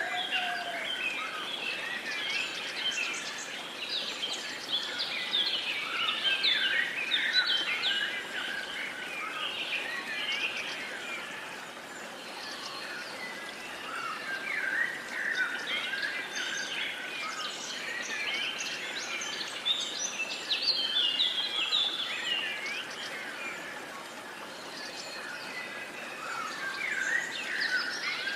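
A chorus of many songbirds chirping and singing at once, with overlapping short calls and whistles over a soft steady hiss. The chorus thickens a few seconds in and again past the middle.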